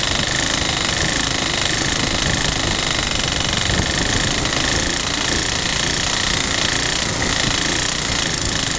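Rebuilt Suffolk small single-cylinder petrol engine running steadily with no knock.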